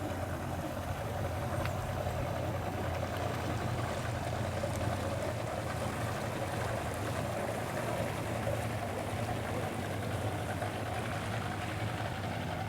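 Steady hum of a motor running at constant speed, with a light hiss over it.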